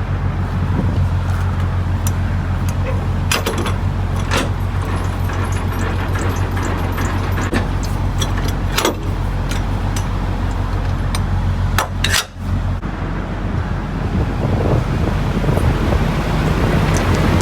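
Semi truck's diesel engine running steadily, a constant low hum, with scattered sharp clicks and knocks over it and a brief drop in level about twelve seconds in.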